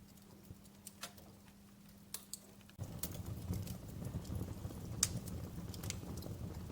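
Wood fire in a fireplace crackling with scattered sharp pops. About three seconds in, a low rumble of flames comes in suddenly and the pops grow more frequent.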